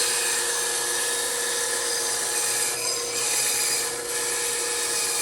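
Bandsaw cutting through wood, a steady sawing hiss over the hum of the running saw, as a corner is trimmed off a wooden cutout.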